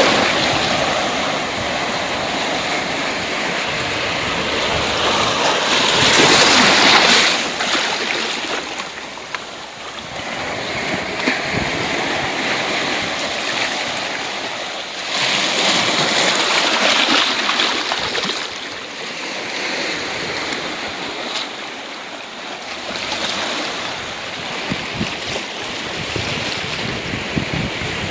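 Ocean waves breaking and washing up the shore, a steady hiss that swells and ebbs in slow surges, the two loudest about six and fifteen seconds in.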